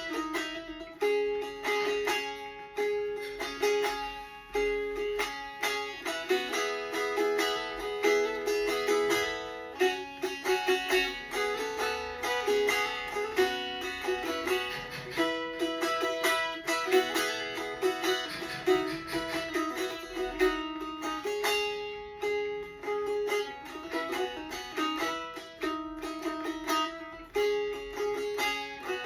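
A plucked string instrument played solo, an improvised melody of quick, repeated picked notes.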